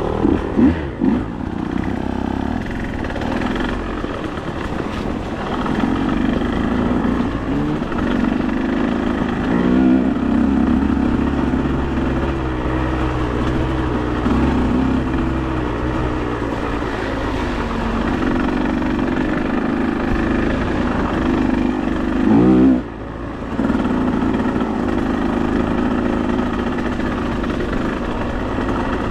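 Engine of an off-road vehicle running steadily while being ridden, the revs rising and falling with the throttle. Near the end there is a quick climb in revs, then a brief drop in sound before it settles again.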